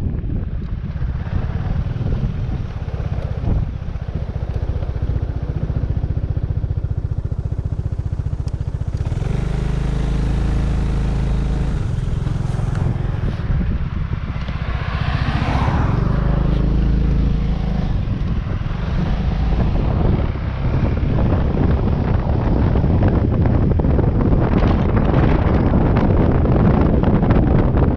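Wind buffeting the microphone of a moving Yamaha Majesty 400 scooter, a loud steady rumble with engine and road noise underneath. Around the middle a brighter hiss joins in for several seconds.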